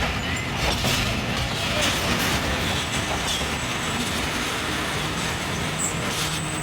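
Passenger train coaches rolling on the track, wheels clattering over the rail joints.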